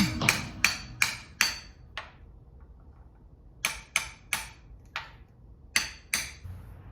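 Tool work on engine parts: a series of sharp hard knocks or clicks, about eleven in all, in quick clusters of five, then four, then two, with a pause of over a second after the first cluster.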